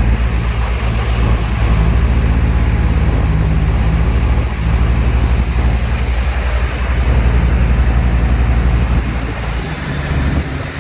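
Heavy earthmoving machine's diesel engine running steadily under load, with a steady low throb. Its note changes about a second before the end.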